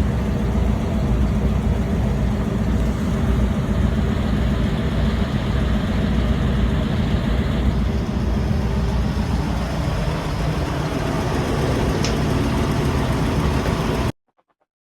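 A 1971 warm-air furnace running on its newly replaced blower belt: a steady low rumble with rushing air, showing the belt-driven blower is turning again. It stops abruptly near the end.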